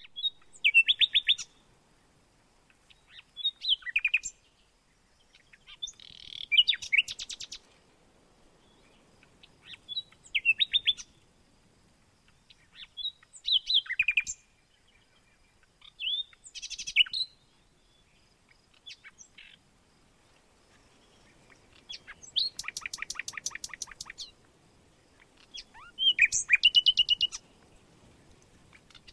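A songbird singing short phrases of rapid, buzzy repeated notes about every three seconds. One longer phrase comes about three-quarters of the way through.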